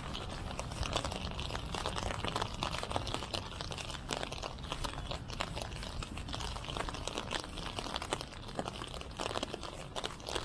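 Rain falling, heard as a dense, irregular crackle of small ticks close to the microphone.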